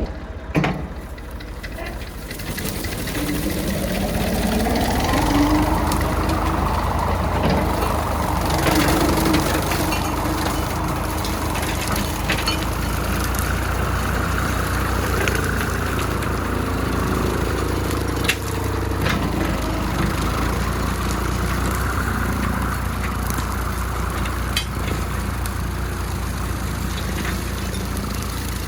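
Small tractor's engine running under load, driving a large tractor-mounted brush cutter. A rising whine over the first few seconds levels into a steady running sound, with scattered sharp cracks and snaps through it.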